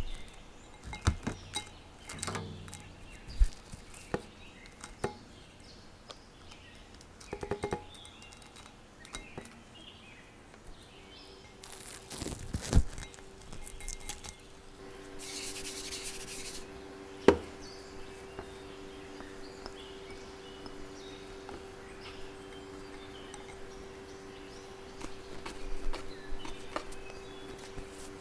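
Kitchen work: scattered knocks, clicks and rubbing of utensils and containers being handled, then a steady electric appliance hum that starts about eleven seconds in and keeps on, with a brief hiss soon after it starts.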